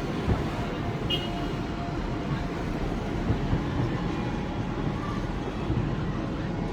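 Fireworks display heard as a continuous low rumble of overlapping bursts, with a few sharper bangs standing out.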